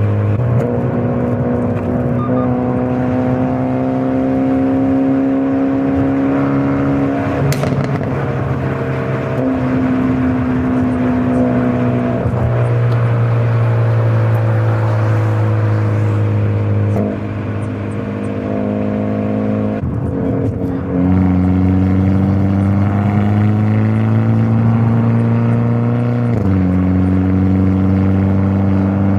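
Hyundai Elantra N's turbocharged 2.0-litre four-cylinder engine and exhaust while driving, a steady engine note that steps in pitch several times as gears change and creeps up slowly between the changes. A single sharp click comes about seven seconds in.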